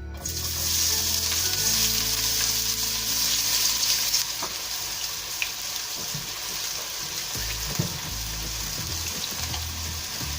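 Chopped onion, garlic and ginger hitting hot cooking oil in a pan, starting suddenly into a loud sizzle as they begin to fry. The sizzle eases slightly after the first few seconds, with a few light clicks.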